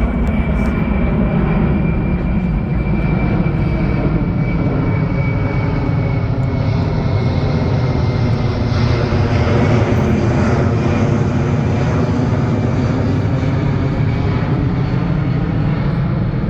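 Boeing C-17 Globemaster III's four turbofan engines running loud and steady as the big jet flies a slow pass, with a faint high whine that falls a little in pitch over the first several seconds.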